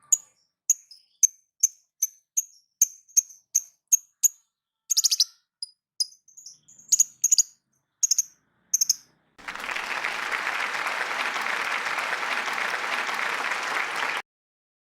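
Lovebird (Agapornis) calling in sharp, high-pitched chirps about twice a second, with a harsher buzzy call about five seconds in. Then a loud, steady hiss of noise for about five seconds that stops abruptly.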